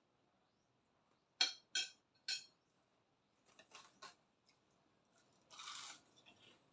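Cutlery clinking against a plate: three sharp ringing clinks close together, then a few lighter taps and a brief scraping sound near the end.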